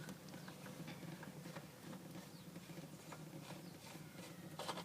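Faint, scattered light ticks and patter from an oil filter being twisted off by hand over a drain pan, with a low steady hum underneath.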